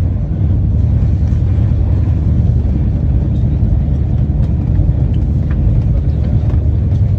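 Steady low rumble of a moving passenger train heard inside the coach, with a few faint light ticks and rattles over it.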